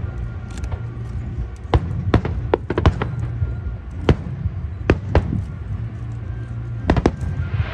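Fireworks bursting: about a dozen sharp bangs at irregular intervals, some in quick pairs, over a continuous low rumble.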